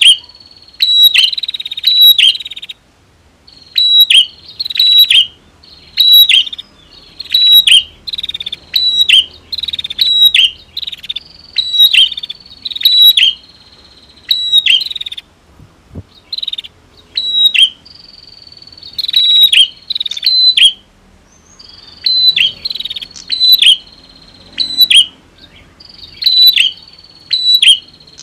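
Male and female prinias (prenjak) calling loudly: sharp, high-pitched chirping phrases repeated in quick bursts about once a second, with short pauses between runs.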